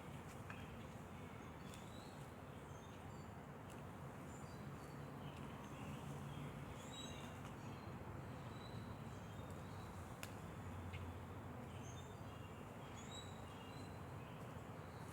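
Faint outdoor ambience: scattered short, high bird chirps over a steady low background noise.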